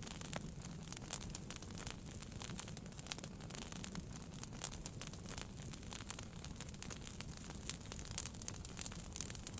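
Wood fire burning in a fireplace: a steady low rumble and hiss with frequent small, irregular pops and crackles.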